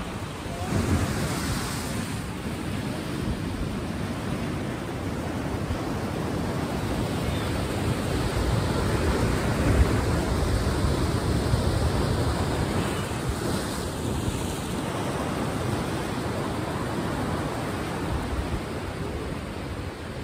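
Sea waves: a steady rushing wash of surf that swells and ebbs, loudest around the middle.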